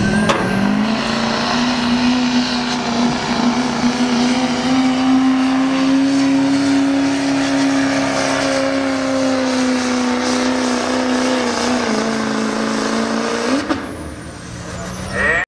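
Diesel pickup truck engine at full throttle pulling a sled, held at high revs for about thirteen seconds with its pitch creeping slightly upward. Near the end the revs drop and the engine note falls away as the throttle comes off.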